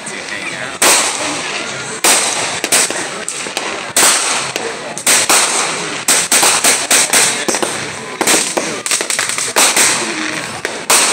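Fireworks going off in a rapid, irregular string of sharp bangs and cracks, with a dense fast run of pops in the middle.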